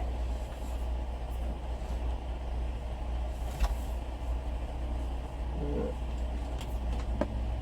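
Steady low rumble like an idling vehicle engine, with two sharp knocks, one about three and a half seconds in and one near the end.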